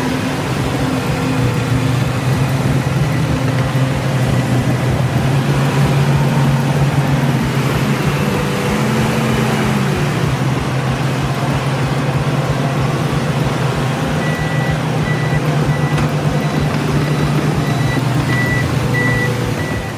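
Heavy diesel engines of a truck and bulldozer running steadily under load, the engine note swelling briefly about halfway through. A reversing alarm beeps repeatedly through the last third.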